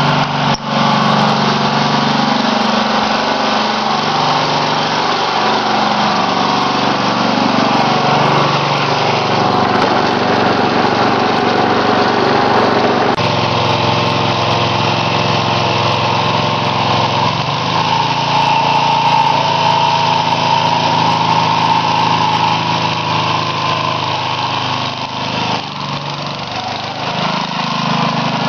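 Small lawn tractor's 8 hp Briggs & Stratton single-cylinder engine running steadily; its sound changes abruptly about halfway through and carries on.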